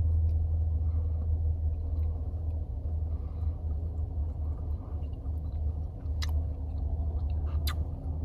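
Chewing tough biltong (dried meat) over a steady low rumble, with two sharp clicks in the second half.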